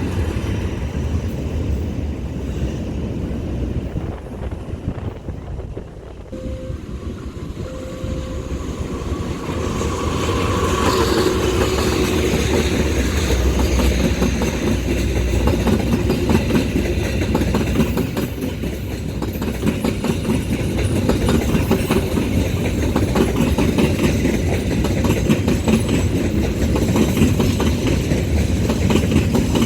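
Train running past, a continuous low rumble with rapid clattering of wheels over the rails that grows louder about ten seconds in.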